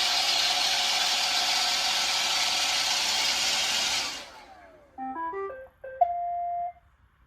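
iRobot Roomba 960 robot vacuum running its suction motor with a steady whine, then spinning down with a falling tone about four seconds in. It then plays a short run of electronic beep tones, followed by a click and one held beep.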